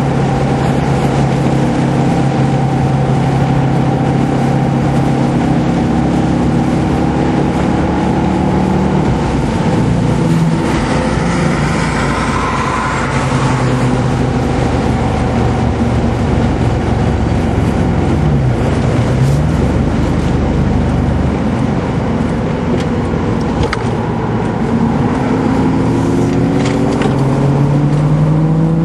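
Car engine running hard at speed, heard from inside the car over road and wind noise. The engine note holds steady, briefly drops and picks up again about two-thirds of the way through, then rises as the car accelerates near the end.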